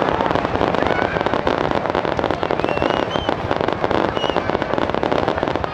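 Star mine fireworks finale: a dense, unbroken barrage of shell bursts and crackle, with a few short whistles showing above it.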